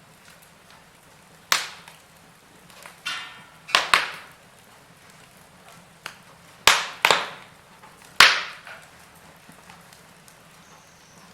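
Wood fire in a fireplace crackling, with several sharp, loud pops from the burning logs, the biggest a little past the middle and toward the end.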